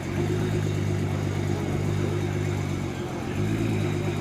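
A car engine idling steadily, with a brief dip and shift in pitch about three seconds in.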